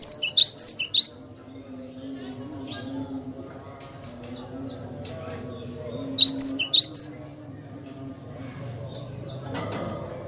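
Cinereous tit (gelatik batu) singing: two brief bursts of sharp, high, rapidly repeated notes, one at the start and another about six seconds in, over a faint steady low hum.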